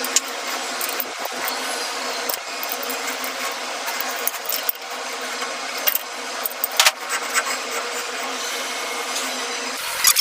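Elevator hoist machine running with a steady hum, with scattered metallic clicks and knocks, several close together in the second half.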